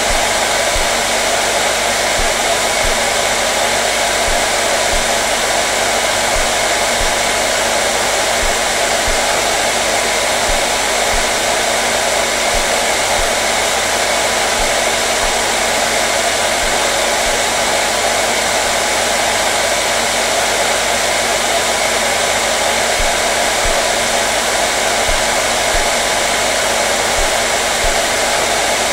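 Hair dryer running steadily: a constant, loud rush of blown air over a low motor hum, unchanging throughout.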